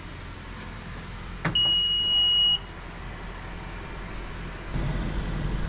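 A car's single electronic beep, one steady high tone lasting about a second, just after a click. Near the end a low engine rumble starts and keeps going.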